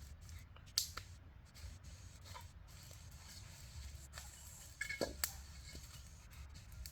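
Faint scraping and handling noises over a low steady rumble, with a sharp click about a second in and a few more clicks and scrapes about five seconds in.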